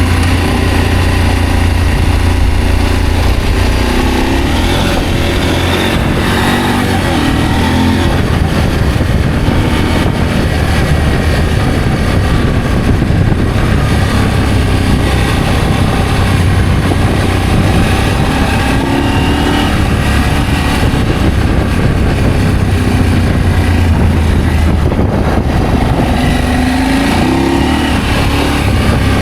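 Adventure motorcycle engine running on the move, with wind noise on the microphone; the engine note rises and falls about a quarter of the way in and again near the end.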